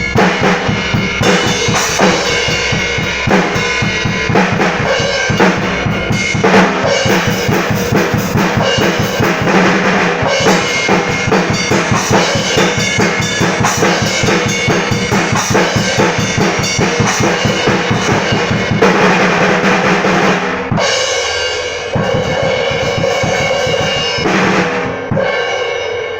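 Drum kit played hard and fast, with quick bass drum and snare strokes under cymbals; the cymbals are being tested. The playing ends with cymbals ringing and fading.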